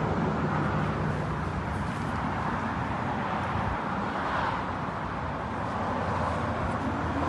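Steady vehicle noise, swelling slightly about four seconds in.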